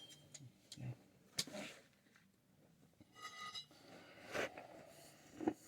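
Faint, scattered clicks and light metallic clinks of tools and fittings being handled, with one short ringing clink about three seconds in.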